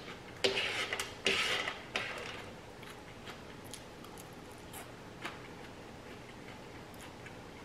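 Close-miked eating sounds: a few crisp, crunchy bursts within the first two seconds, then quieter soft chewing with faint clicks.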